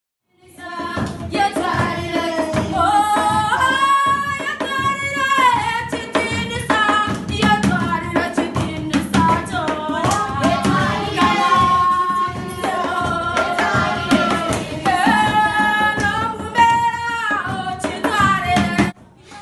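A song: a solo voice holding long notes that slide up and down, over drums and other instruments. It starts just after silence and cuts off suddenly near the end.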